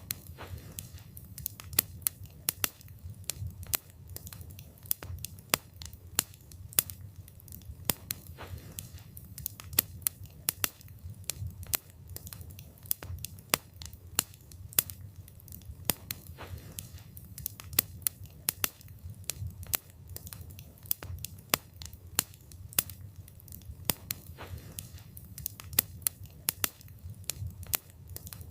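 Wood fire burning, with sharp irregular crackles and pops of the burning wood, several a second, over a low steady rumble of the flames.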